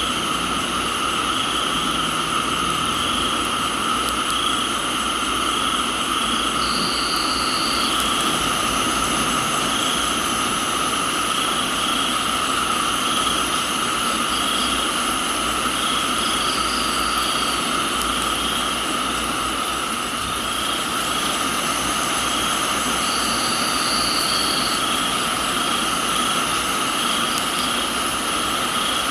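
Tropical night chorus of crickets and other insects, several steady shrill trills at different pitches with one pulsing evenly, over the steady hiss of rain. A brief higher buzzing call comes in a few times.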